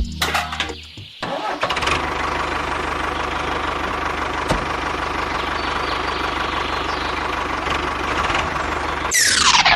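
A motor running steadily, with a fine rapid rumble underneath, starting about a second in. Near the end it turns into a quick falling sweep and cuts off abruptly.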